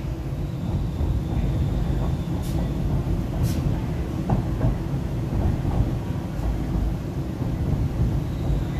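MTR East Rail Line R-Train running along the track: a steady low rumble of wheels and motors with a faint high whine, and two sharp clicks about a second apart.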